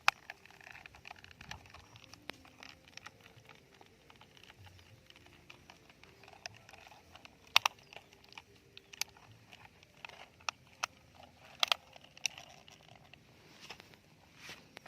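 Scattered sharp clicks and taps of small plastic toys being handled, the loudest around the middle and about three quarters of the way through, over a faint patter.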